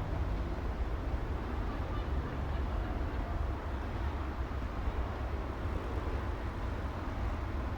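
City street traffic ambience: a steady, even wash of low road-traffic noise with no single vehicle standing out.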